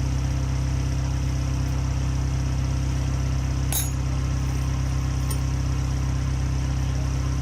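Engine idling steadily with a low, even hum, and two faint ticks near the middle.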